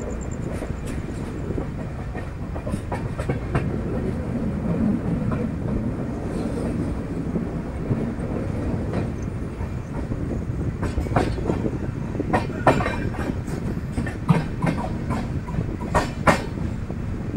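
Indian Railways express train running along the track, heard aboard: a steady low rumble with sharp clacks of the wheels over rail joints, which come thicker and louder in the second half.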